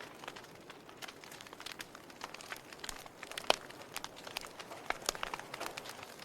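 Log fire crackling: irregular sharp pops and snaps from burning wood over a soft hiss, with one louder pop about three and a half seconds in.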